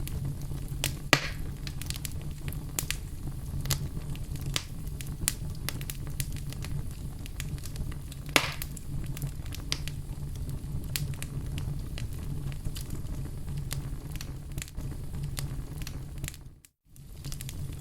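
Wood fire crackling with frequent small pops over a steady low roar, and two louder pops, one about a second in and one about eight seconds in. The sound briefly drops out near the end.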